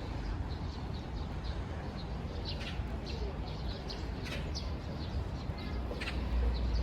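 Small birds chirping: many short, high calls scattered throughout, over a steady background rush with a low rumble.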